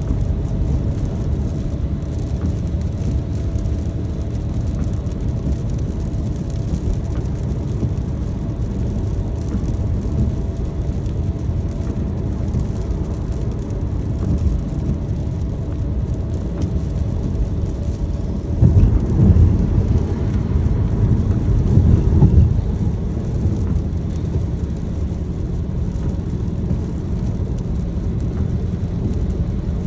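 Car driving in the rain: steady low road and engine rumble with rain noise, swelling louder twice about two-thirds of the way through.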